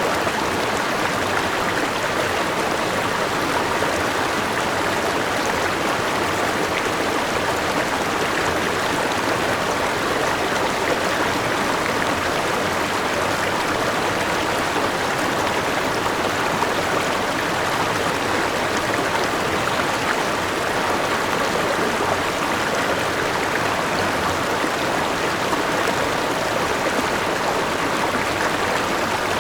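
River water rushing and splashing over rocks: a steady, unbroken flow.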